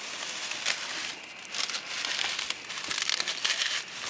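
Dry leaves and twigs being handled and pressed into a campfire lay, with an irregular run of crunching and crackling.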